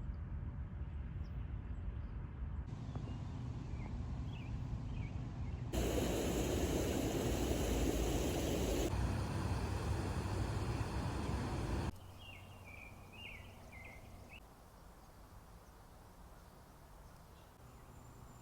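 Outdoor ambience of wind and rumble, changing abruptly at several cuts. Short bird chirps come about three seconds in and again about twelve seconds in, where the background drops much quieter.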